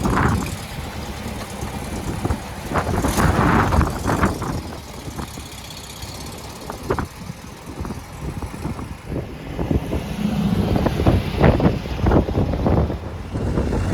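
Air-cooled Volkswagen flat-four engine running, with irregular surges in level.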